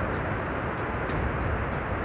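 Steady rumble and road noise of a car driving.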